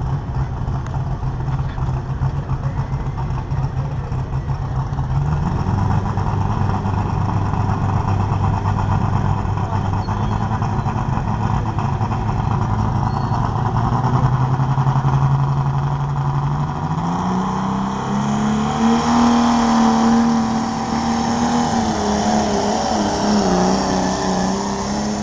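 White 2-70 farm tractor's engine running hard under load as it pulls the weight-transfer sled. Its pitch holds steady, steps up about five seconds in, climbs again about two thirds through, then sags a little near the end as the sled brings it to a stop.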